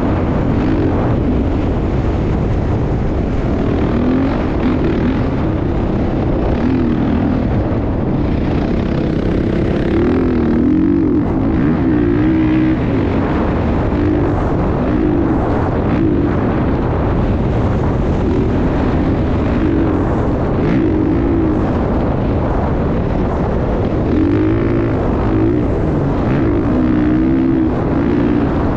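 Motocross motorcycle engines revving up and down again and again over a loud, steady rumble.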